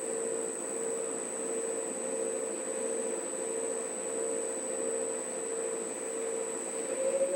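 Large 39 kg commercial front-load washing machine running, its motor giving a steady hum over the churn of the drum. Near the end the motor's pitch begins to rise as the drum speeds up.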